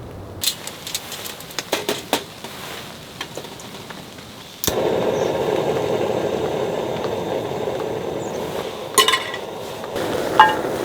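Camp cooking: metal cookware clinking and tapping a few times, then a click about halfway through and a steady hiss that starts abruptly and carries on, with a couple more clinks near the end.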